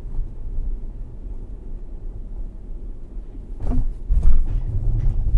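Low road rumble inside a Tesla Model S cabin, with a short cluster of knocks and rattles from the underbody about three and a half to five seconds in. This is the low-speed suspension rattle over rough pavement that the owner complains of.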